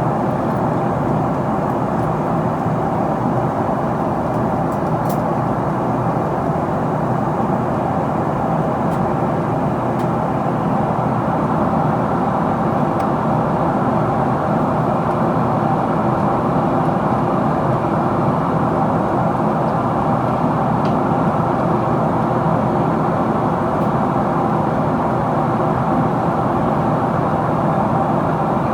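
Steady in-cabin noise of a Boeing 777-300ER in descent: air rushing past the fuselage and the drone of its GE90 engines, with a faint steady tone running through it.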